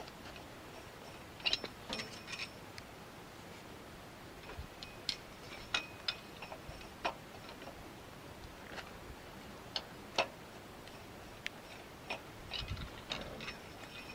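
Scattered light metallic clicks and tinkles, irregular and a second or two apart, from the engine oil dipstick being handled during an oil level check on a tractor.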